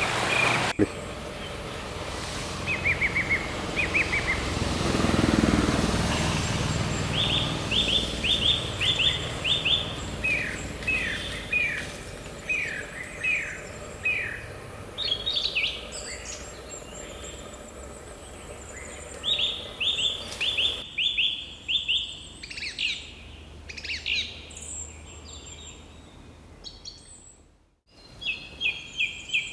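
Birds calling: repeated quick runs of five or six short, falling whistled notes, with other higher calls mixed in. The sound changes abruptly about a second in, about two-thirds through and again near the end, as between spliced recordings.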